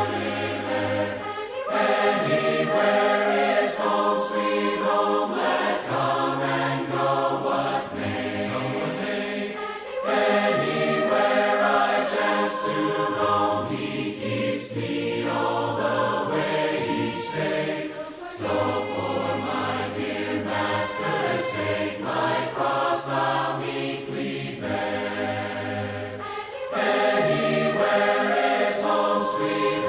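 Congregational hymn sung a cappella by a group of voices in harmony, in long phrases with short breaks between them.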